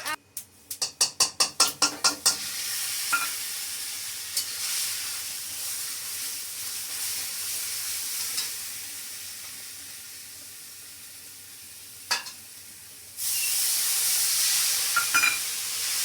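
Food sizzling in hot oil in a pan. In the first two seconds a quick run of about ten clatters comes from the pan being stirred. After that the sizzling runs steadily, fades slowly, and turns suddenly louder about thirteen seconds in.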